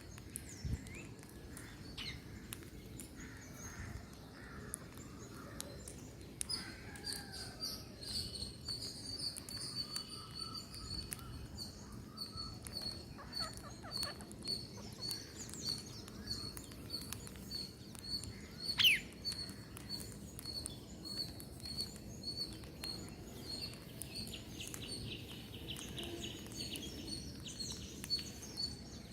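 Birds chirping and calling, with one high note repeated steadily about three times a second from about six seconds in, and one loud, sharp falling call about two-thirds of the way through.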